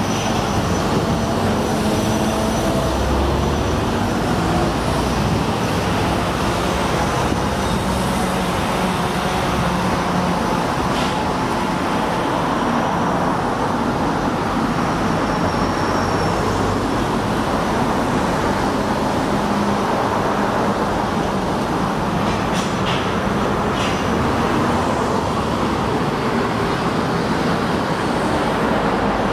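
Steady road traffic noise, with the hum of passing vehicle engines and a few brief clicks.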